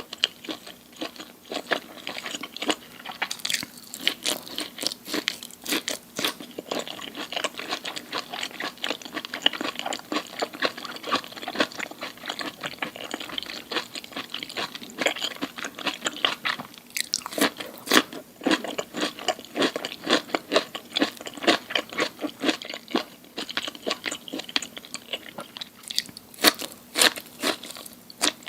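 Close-miked eating: a person biting into and chewing crunchy food, with a dense, irregular run of sharp crunches.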